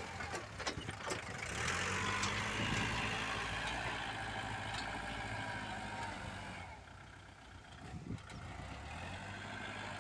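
Diesel engine of earthmoving machinery running steadily, with a few clanks. It grows quieter about seven seconds in, then picks up again.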